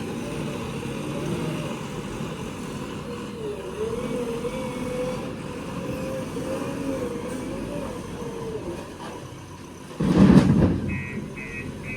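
Heavy diesel machinery running, its engine pitch wavering up and down. About ten seconds in comes a loud, heavy crash, and near the end a reversing alarm beeps about three times a second.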